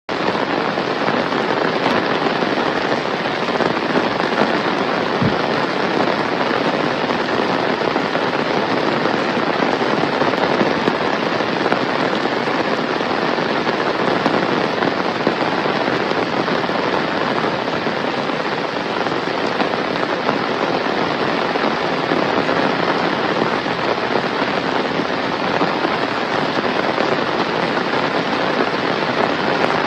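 Rain falling steadily, a dense, even patter of many drops.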